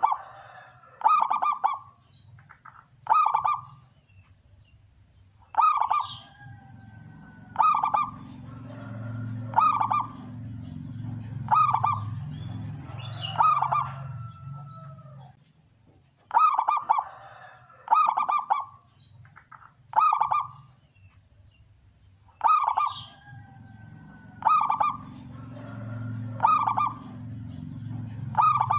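Male zebra dove (perkutut) cooing, repeating short loud song phrases about every two seconds.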